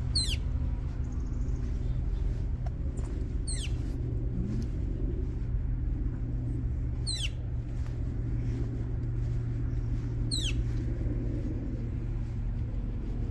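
A small bird repeats a short, high call that falls steeply in pitch, four times about three and a half seconds apart, over a steady low rumble of distant traffic.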